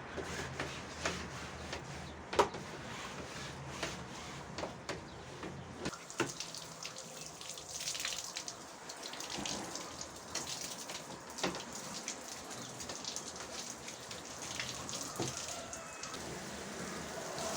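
Water splashing and running while cleaning, with a steady hiss and scattered small clicks and knocks, the loudest knock about two and a half seconds in.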